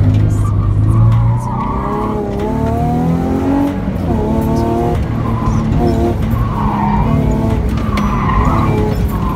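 Honda J32A2 3.2-litre V6 in a Mazda Miata pulling hard under acceleration, its pitch climbing, dropping about four seconds in at an upshift, then climbing again. The Dunlop Star Spec tyres squeal in bursts through the corners.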